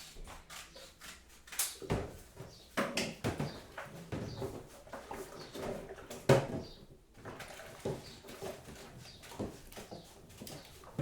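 Kitchen work sounds: an uneven run of knocks and clinks from crockery and utensils being handled, the loudest a sharp knock about six seconds in.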